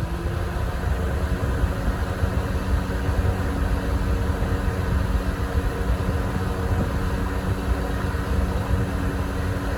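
The top fan of a Honeywell HY-020 outdoor twin-turbo fan running on medium speed: a steady rush of air over a low motor hum.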